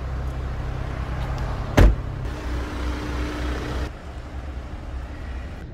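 Car engine running with a steady low rumble, with one sharp bang about two seconds in; the rumble eases off a little near the four-second mark.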